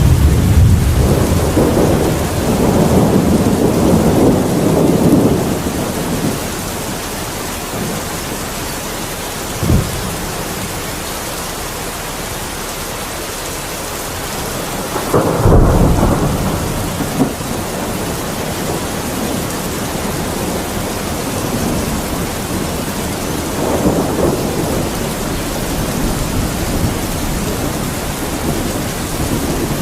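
Steady rain with thunder: a long rolling rumble over the first few seconds, a short sharp crack about ten seconds in, a louder clap about halfway through, and another low rumble near the end.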